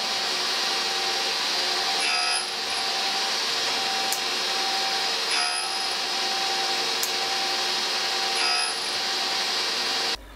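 A grinding wheel running against a cutting tool's tooth as a chamfer is ground onto it: a steady grinding hiss over the hum of the machine, its tone changing briefly about every three seconds as the tool is worked against the wheel. It cuts off abruptly near the end.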